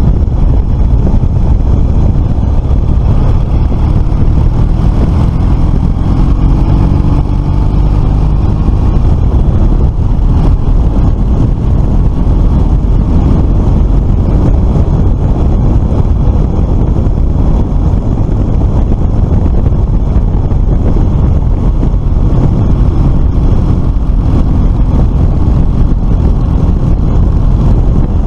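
Motor scooter riding on the road: the engine runs under loud wind rush on the microphone, its pitch shifting briefly about seven seconds in.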